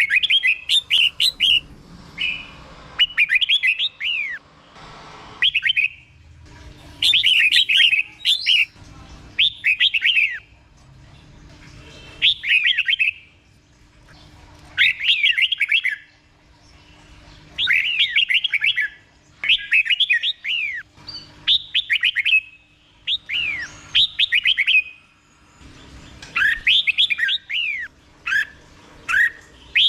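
Red-whiskered bulbul singing its 'double' (เบิ้ล) song: short phrases of quick, clear whistled notes sweeping downward, repeated every two to three seconds with brief pauses between.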